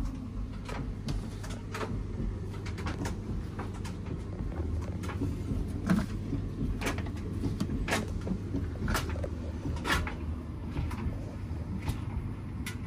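Front-loading washing machine running: a steady low hum with irregular light clicks and knocks, about one or two a second.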